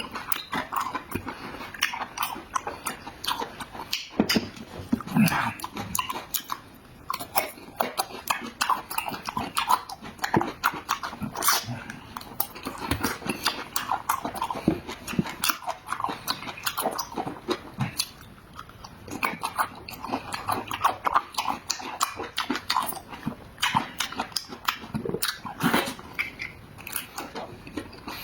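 Close-miked eating: loud chewing, lip-smacking and sucking on meat, a rapid, irregular run of wet clicks and smacks.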